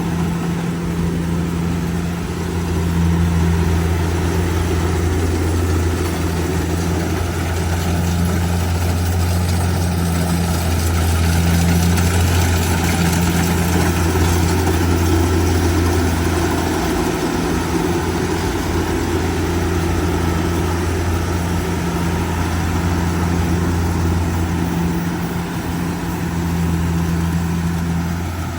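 Kubota DC70G Plus combine harvester's diesel engine running steadily under a constant throttle, a deep continuous hum with machinery noise over it.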